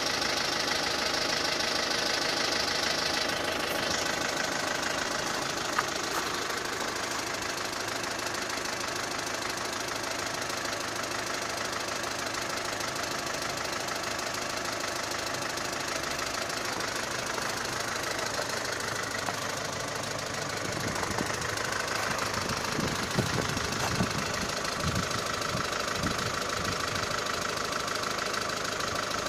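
SsangYong Actyon's engine running steadily at idle, with a few sharper low knocks about three-quarters of the way through.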